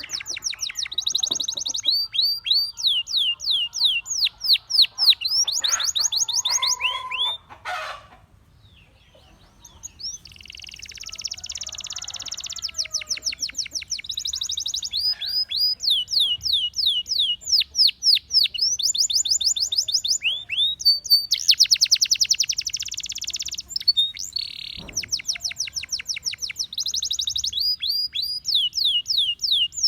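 Gloster canary singing in fast trills of rapidly repeated chirps, with a pause of about two seconds some eight seconds in.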